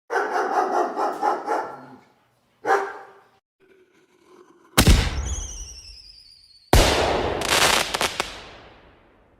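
A dog barking in a quick run of barks, then two sudden loud bangs a couple of seconds apart, each fading out slowly, the first followed by falling whistling tones.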